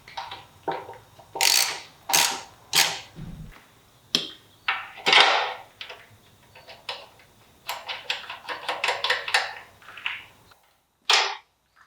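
Irregular short mechanical clanks and clicks, with a quick run of them about eight seconds in, then a sudden cut to silence near the end.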